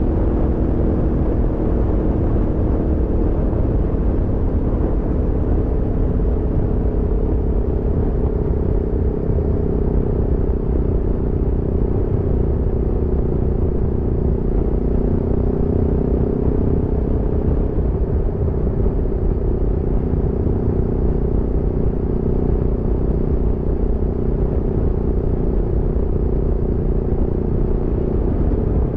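Aprilia Tuono V4 motorcycle's V4 engine pulling steadily at a constant cruise, its note holding almost level with a slight sag in pitch midway, over a heavy low rumble.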